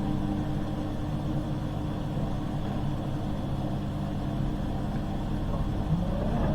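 Hoover H-Wash 300 Plus washing machine's drain pump running with a steady hum, draining the water ahead of the final spin.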